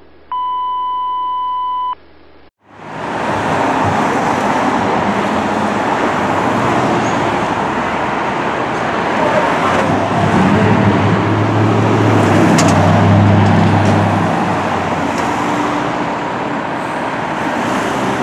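A steady electronic beep tone for about two seconds, then loud road-traffic noise. A heavy vehicle's engine rumble in it swells to its loudest a little past the middle and eases off again.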